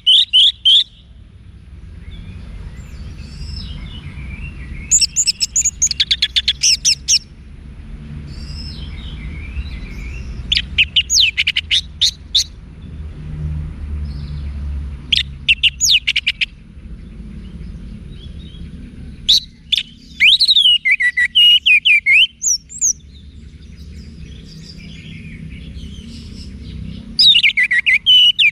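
Orange-headed thrush singing: phrases of rapid sharp notes and sliding whistles, about five in all, each a second or two long with pauses between, over a faint low hum.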